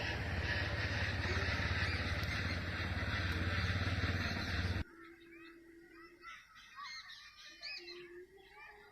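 A loud, even rushing noise with a heavy low rumble cuts off abruptly about five seconds in. Many birds then chirp, with a few lower, steadier calls among them.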